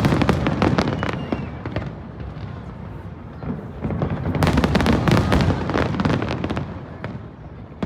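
Fireworks going off in rapid crackling volleys: a dense run of cracks over the first two seconds, then a second, louder volley from about three and a half to six and a half seconds in.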